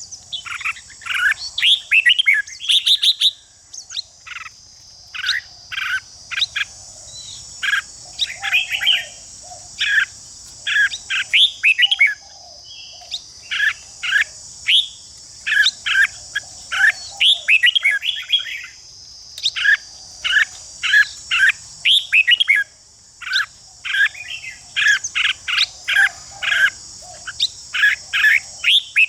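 Red-whiskered bulbuls singing in quick, repeated short phrases with harsh chattering, the excited singing of birds in a song duel. A steady high buzz, like insects, runs underneath.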